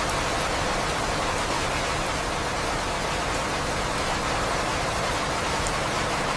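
Steady rain, an unbroken even hiss with no thunder or separate drop sounds.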